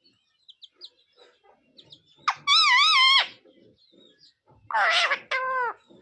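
Pet green parrot calling: a few soft chirps, then a loud call with a wavering pitch about two seconds in, and two more calls near the end, the last falling in pitch.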